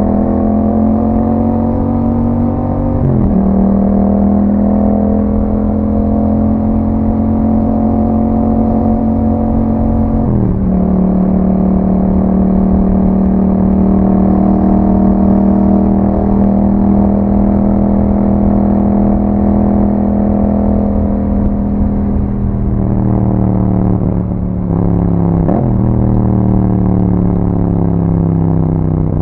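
Yamaha MT-07's 689 cc parallel-twin engine running through an Akrapovic exhaust while riding, holding fairly steady revs. The engine note briefly dips and recovers about three seconds in, again about ten seconds in, and twice near the end.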